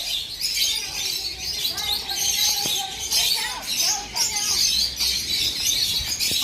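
Many small birds chirping together in an aviary: a dense, continuous chorus of short high chirps.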